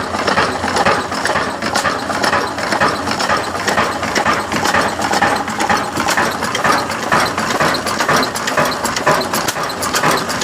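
Slow-speed single-cylinder 20 hp Ruston Hornsby-type 'kala desi' diesel engine running, a steady mechanical clatter with an even beat.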